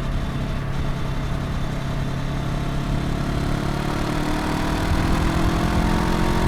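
Honda NX500's 471 cc parallel-twin engine and exhaust while riding, running steadily and then rising in pitch from about halfway through as the bike accelerates.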